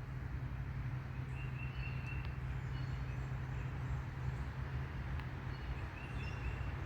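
Birds chirping faintly, a few short high notes twice, over a steady low hum.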